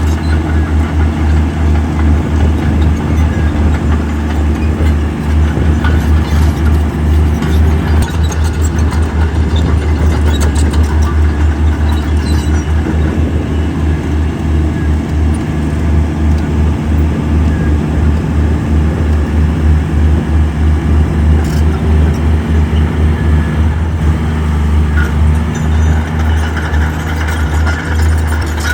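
Heavy diesel engine of earthmoving machinery running steadily with a deep, pulsing low throb.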